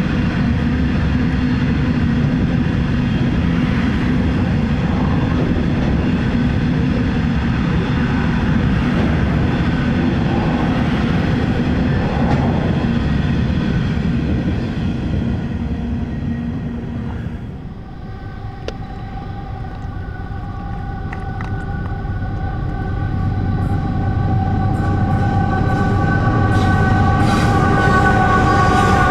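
An empty coal train rumbles past on a steady run of wagons. About two-thirds of the way through, that sound cuts off and a loaded coal train led by XRN-class diesel locomotives approaches. Its sound holds several steady tones and grows louder toward the end.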